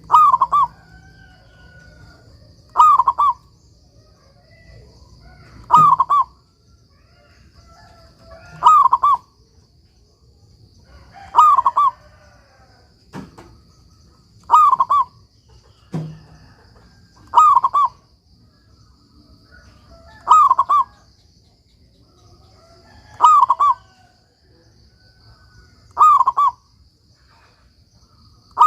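Zebra dove (perkutut) singing its cooing song, a short phrase repeated about every three seconds, ten times in a row.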